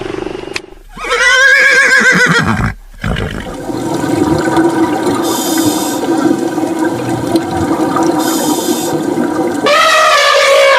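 Animal calls from separate clips cut together: a short pitched call about a second in, a long steady call from about three seconds, and another loud call near the end.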